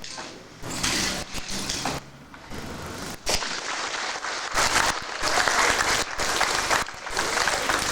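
Audience clapping, a dense spread of hand claps that swells louder in the second half and is cut by several brief gaps in a poor recording.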